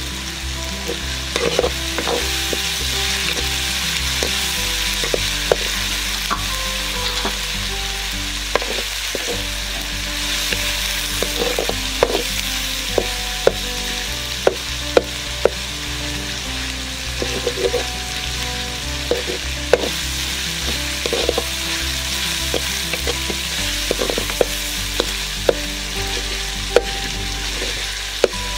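Onion, tomato and chili masala frying and sizzling in oil in an iron kadai. A metal ladle stirs it, scraping and clinking against the pan in many short, irregular knocks.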